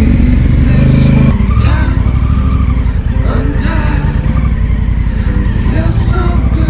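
Honda Africa Twin's parallel-twin engine running under way; about a second in its steady note gives way to a rougher, fast pulsing beat.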